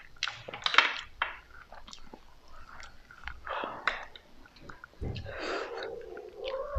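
Close-miked chewing and biting of food, with wet mouth sounds and crunchy, crackly bursts at irregular moments, loudest about a second in.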